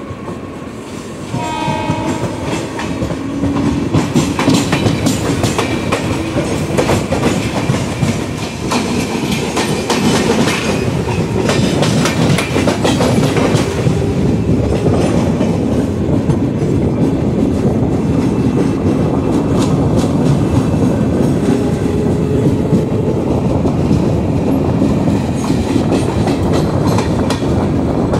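Two trains running side by side: the Mumbai local and an express on the parallel track, a steady rumble with the rapid clickety-clack of coach wheels over rail joints, growing louder about a second and a half in.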